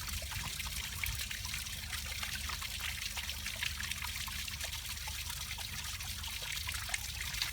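Water trickling and pouring steadily from a running bilge pump's discharge as it drains a flooded sump pit, with a low steady hum underneath.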